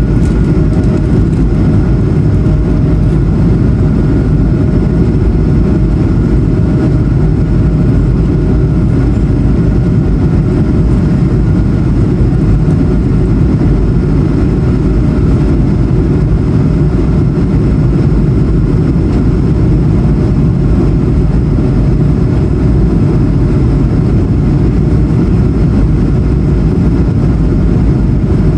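Airbus A220-100's Pratt & Whitney PW1500G geared turbofan engines running, heard from inside the passenger cabin: a loud, steady low rumble with a faint, even whine above it.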